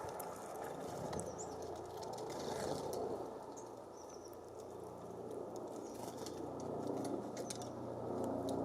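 Small songbirds at a feeder giving short, high chirps and call notes, with scattered sharp ticks and taps, over a steady rush of breeze.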